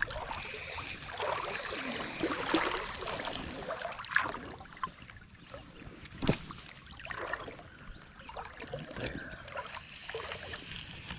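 Water sloshing and splashing in a creek, with a couple of sharp knocks about four and six seconds in.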